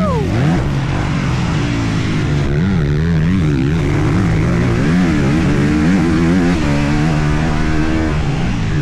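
Honda CRF250R dirt bike's single-cylinder four-stroke engine, heard close up while being ridden hard, its revs climbing and dropping again and again with throttle and gear changes.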